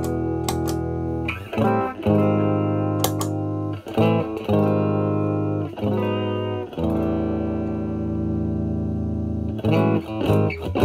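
Fender Stratocaster electric guitar played through a Vertex Steel String Clean Drive pedal at gain 0, into a Marshall Valvestate amp's clean channel: a lightly driven clean tone. Chords are struck and left to ring, one held for about three seconds in the middle, with a few quick strums near the end.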